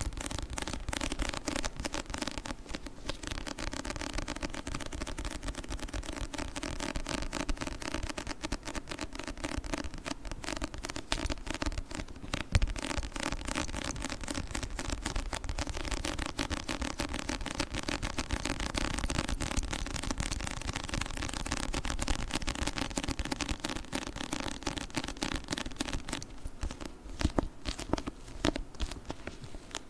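Fast, continuous sticky crackling and peeling from fingers working over a book, many small clicks a second without a break.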